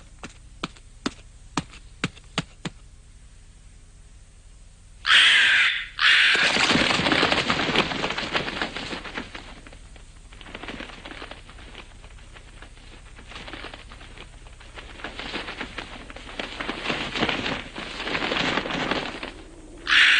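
Cartoon sound effects of a fight with a crow. First a run of sharp clicks, then a loud shriek about five seconds in, followed by a long, noisy scuffle that swells and fades.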